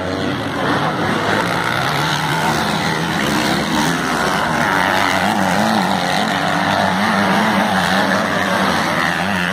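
Several racing 250 and 450 cc motorcycle engines running hard, their pitch rising and falling as the riders work the throttle and shift gears.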